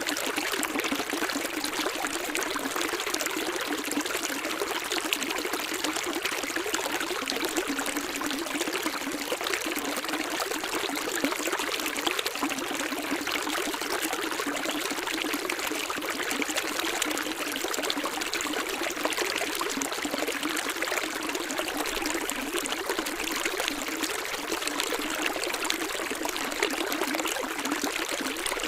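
Running water: a steady stream or small cascade splashing and trickling without pause.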